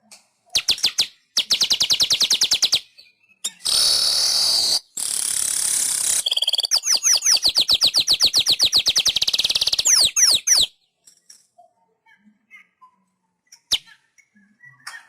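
Manyar (weaver bird) singing: fast chattering trills of repeated notes alternating with wheezy, hissing buzzes, the last trill ending in a few downward-slurred notes about two-thirds of the way through. After that only faint scattered chirps and a single click.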